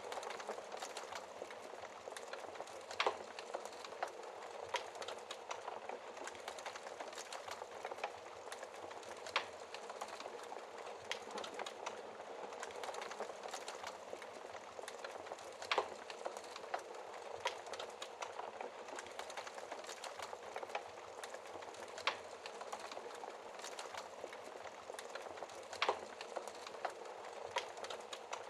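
Wood fire burning in a fireplace: a steady crackle and hiss with irregular small snaps and a handful of louder, sharp pops.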